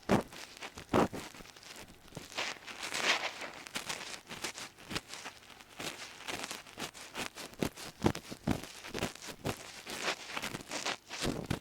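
Close-up ear cleaning with an ear pick: irregular crackly scraping and rubbing strokes, some short clicks and some longer scratchy swishes.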